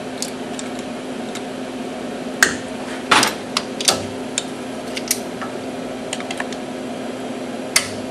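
Scattered metal clicks and clanks of a machine vise and clamps being handled and tightened on aluminum sheet stock, over a steady hum.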